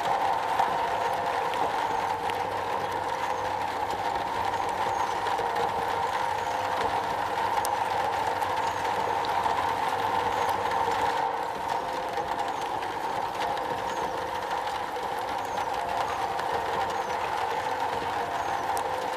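Rain falling on a metal roof: a dense, steady patter with no pauses.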